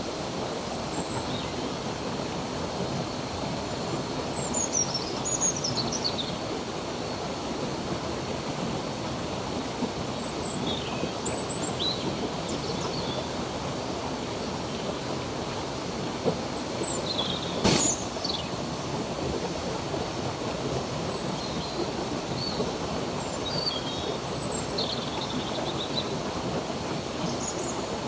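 Steady rush of a flowing stream, with birds chirping now and then over it. A single sharp click comes about two-thirds of the way through.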